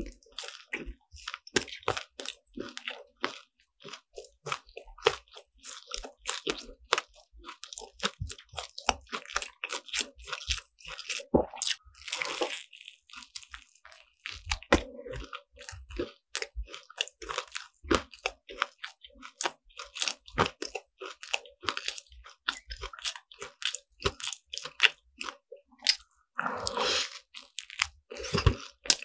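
Close-miked biting and chewing of crispy croffles (croissant dough pressed in a waffle iron): a dense run of sharp crunches through the crust, with softer chewing between. There are longer crackling crunches about twelve seconds in and near the end.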